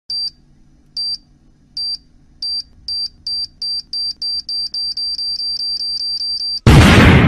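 Time-bomb sound effect: a high electronic beep repeats, speeding up from about one a second to rapid beeping, over a faint low hum. Near the end it gives way to a loud explosion that rumbles and fades.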